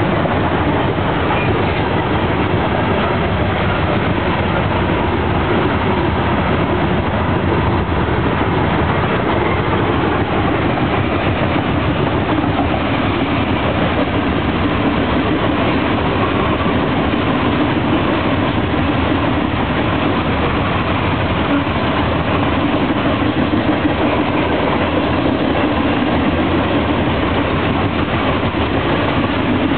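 Loaded coal hopper cars of a freight train rolling past at speed: steady, loud wheel-on-rail noise.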